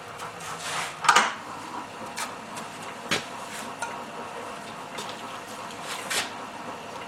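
A few sharp metal clinks and knocks of tools and parts being handled at a crankshaft polishing machine, the loudest about a second in, over a faint steady machine hum.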